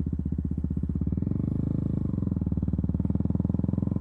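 KTM Duke 200's single-cylinder engine running at low revs, a steady, even pulsing that picks up slightly about a second in.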